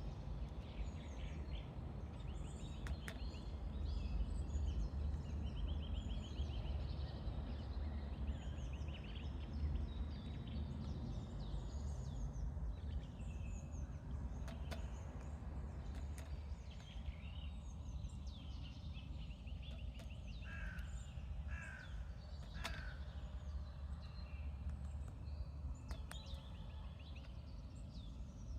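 Several small birds chirping and trilling at a bird feeder, with a few short, lower calls near the end, over a steady low rumble and a few sharp clicks.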